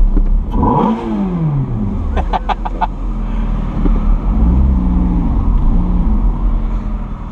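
Sports car engine revving: the pitch climbs and drops away steeply in the first couple of seconds, with a few short sharp pops, then rises and falls twice more before fading.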